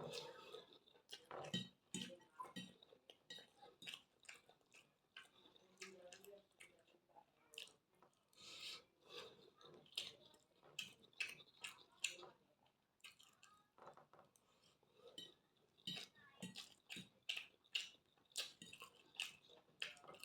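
Close-miked eating sounds: chewing and mouth smacks, with cutlery clicking against a plate, coming irregularly several times a second.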